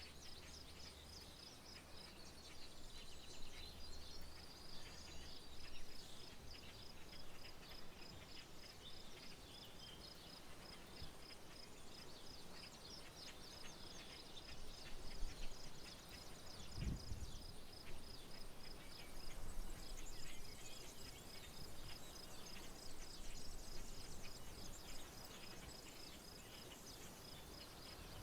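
Rural wetland ambience: a steady, rapidly pulsing high insect trill under many short bird chirps and calls, over a faint low rumble. A brief low thump comes about 17 seconds in.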